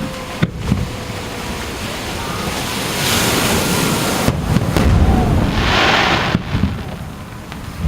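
Aerial fireworks bursting over the sea: several sharp bangs with low rumble, and two stretches of loud hissing crackle of about a second each between them.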